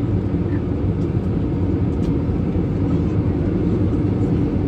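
Steady low drone of an airliner cabin in flight: engine and airflow noise, with a few faint ticks.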